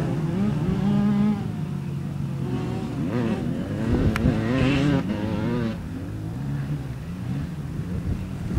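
Motocross motorcycle engines revving up and down, several engine notes overlapping, with the pitch climbing and dropping as the bikes accelerate and back off.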